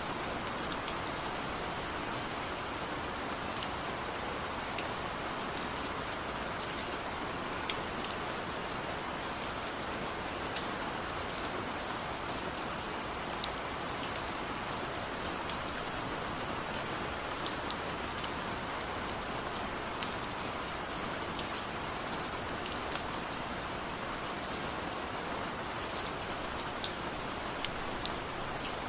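Steady rain falling, with scattered sharp drips and taps of individual drops heard above the continuous patter.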